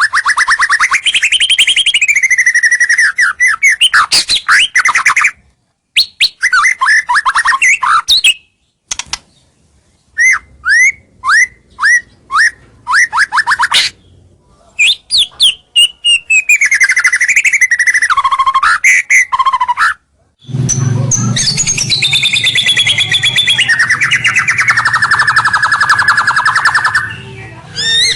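White-rumped shama (murai batu) singing loudly: quick runs of sharp downslurred notes and whistles, broken by short silences, then about two-thirds of the way through a long, harsh buzzy chatter with a low rasp under it. This is the male's territorial song, which draws rival males in.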